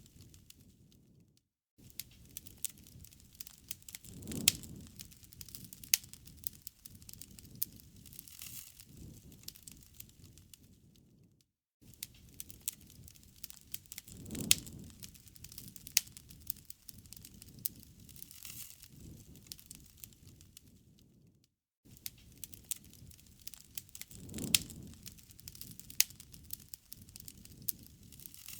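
Wood campfire crackling, with sharp pops and snaps over a soft hiss. It is a short recording looped about every ten seconds, each loop starting after a brief drop-out.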